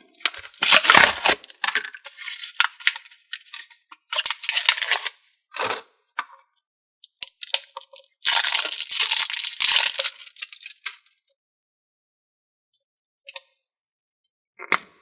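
Hands handling slime and its plastic container: bursts of crackling, tearing noise for about the first eleven seconds, loudest from about eight to ten seconds in, then a few faint clicks.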